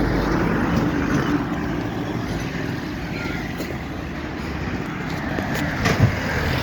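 Steady outdoor background noise: an even rushing haze with a low rumble underneath and a few faint clicks near the end.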